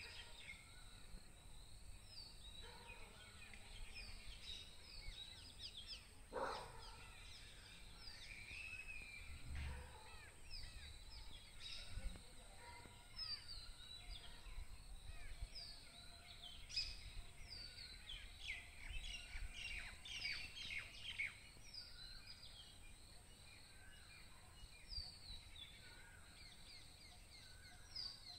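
Faint birds chirping: many short, quickly falling calls scattered throughout, over a steady thin high whine and low outdoor background noise.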